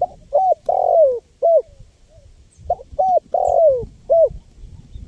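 Spotted dove (tekukur) cooing, two phrases about a second and a half apart. Each phrase is four low coos: two short ones, a longer coo that falls in pitch, then a short one.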